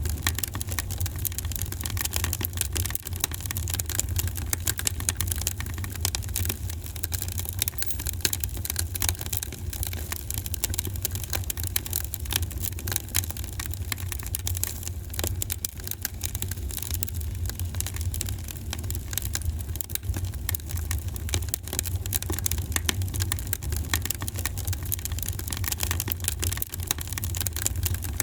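Wood fire in a fireplace crackling with dense, constant small pops over a steady low rumble of the flames.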